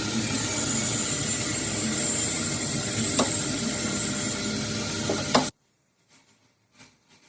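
A loud, steady hissing machine noise from workshop work that cuts off abruptly about five and a half seconds in, followed by near silence and a few faint clicks.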